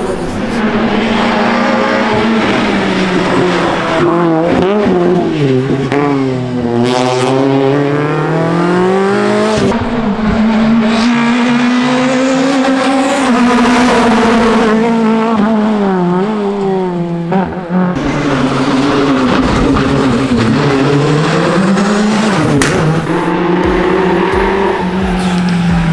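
Rally cars driven flat out on a stage, their engine notes climbing under acceleration and dropping through gear changes and braking, with some tyre squeal. Several passes follow one another with abrupt changes a few times.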